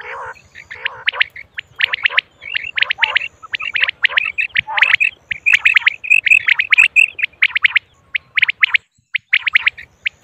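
Female common quail calling: a dense run of short, sharp chirping calls, often overlapping, with a quicker string of repeated notes in the middle and a brief pause about eight seconds in.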